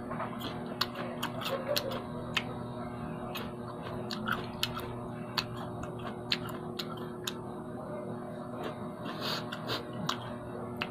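Close-up mouth sounds of a man chewing raw kamias, irregular sharp clicks and wet smacks, a few louder than the rest, over a steady low electrical hum.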